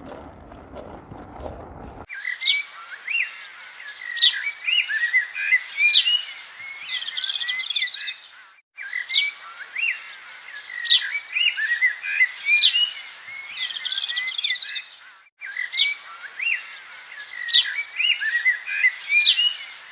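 Songbirds chirping and trilling in quick, repeated phrases. The birdsong starts abruptly about two seconds in and loops, with brief cuts to silence every six and a half seconds or so, like an added birdsong soundtrack.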